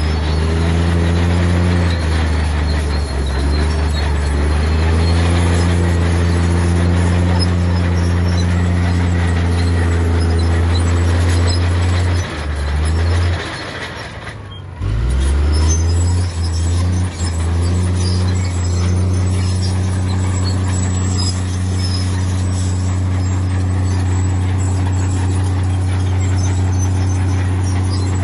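Heavy diesel engine of earthmoving machinery running steadily under load. About halfway through it drops off briefly, then comes back up with a few shifts in pitch before settling again.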